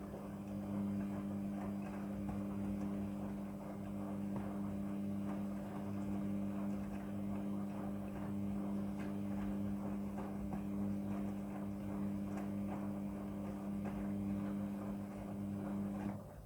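Front-loading washing machine humming steadily, with a crackling, trickling noise over the hum. The hum cuts off suddenly near the end.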